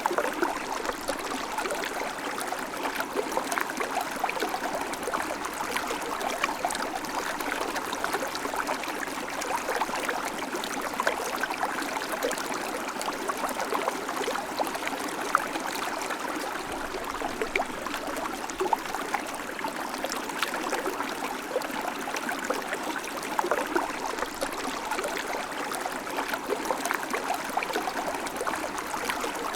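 River water flowing steadily over stones, a continuous rush with small gurgles and splashes throughout.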